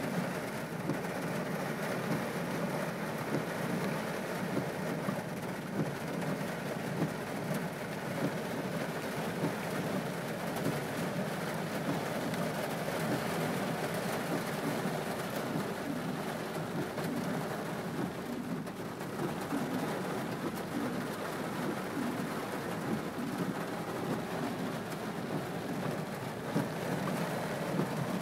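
Heavy rain from a cloudburst, falling steadily with no let-up.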